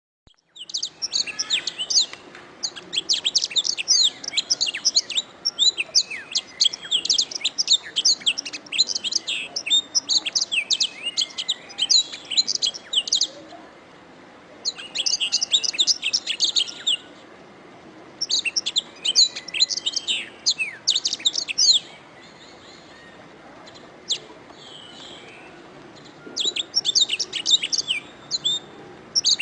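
Domestic canary singing: long phrases of rapid, high chirps and trills, broken by short pauses about 13, 17 and 22 seconds in.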